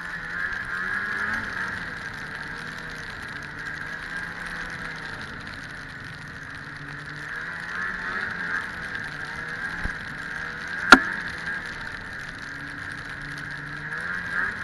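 1997 Ski-Doo MXZ 670 two-stroke snowmobile running along a trail, its engine note drifting up and down with the throttle over a steady high whine. There is one sharp knock about eleven seconds in.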